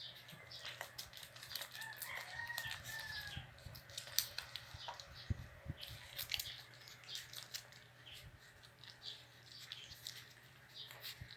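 A rooster crowing once, faint, about two seconds in, its call rising and then falling over a second and a half. Many small sharp clicks and snaps sound throughout.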